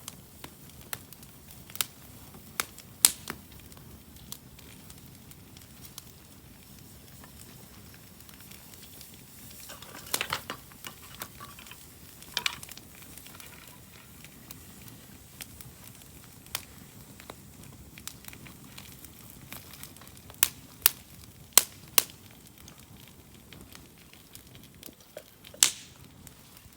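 Wood bonfire crackling, with sharp irregular pops over a low steady hiss; the loudest pops come in clusters about ten seconds in, a little past the middle, and once near the end.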